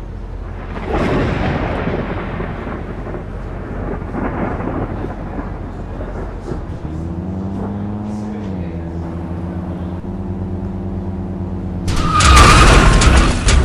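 A rushing, rumbling vehicle noise, then a steady motor drone, and a sudden loud burst near the end.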